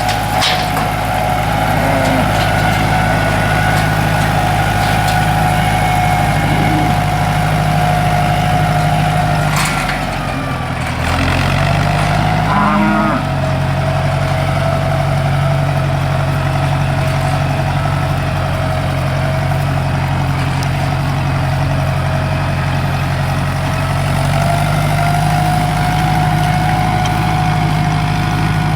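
Tractor engine running steadily, its note dropping briefly about ten seconds in and settling at a new pitch, with a cow mooing about thirteen seconds in.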